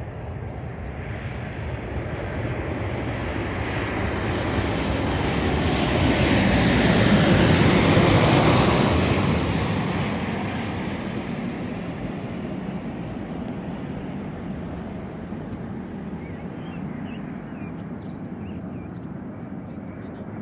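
Aircraft engine noise of a plane passing close overhead: it builds over about seven seconds, peaks about eight seconds in, then slowly fades.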